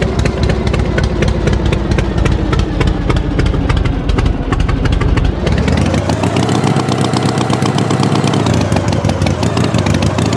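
Tractor engine running with a fast, steady chug. About halfway through the pitch rises and then wavers up and down, as if revving.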